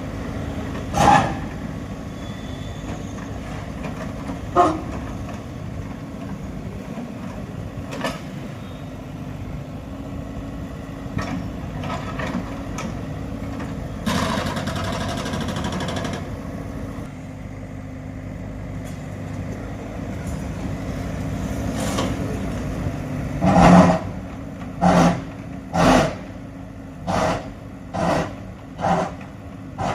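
A heavy engine running steadily, with three short, loud knocks in the first eight seconds and a run of about eight loud knocks roughly a second apart near the end.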